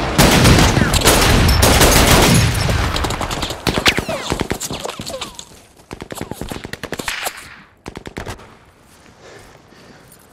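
Sustained automatic gunfire with overlapping shots, dense for the first few seconds, then thinning into scattered single shots and dying down near the end. These are added film gunfire sound effects.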